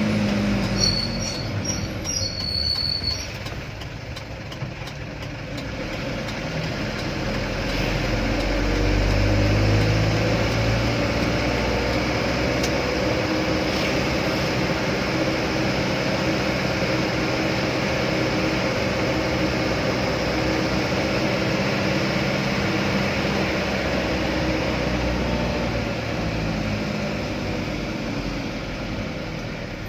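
Loaded truck's engine running on the road: a steady drone, with the low rumble swelling about eight to ten seconds in before settling again.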